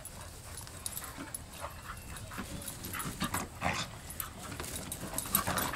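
A puppy at play, with faint small dog noises over scattered light taps and knocks that grow busier after about two and a half seconds.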